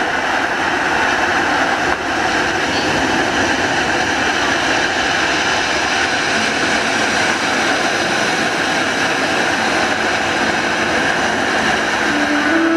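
Audience applauding steadily in a hall. Music starts near the end.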